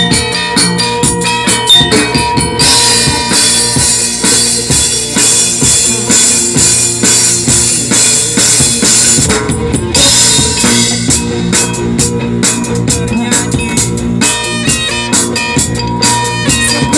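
Live band playing an instrumental passage with a busy drum beat: bass drum, snare and rimshots over the band, with cymbals washing in for several seconds from about two and a half seconds in.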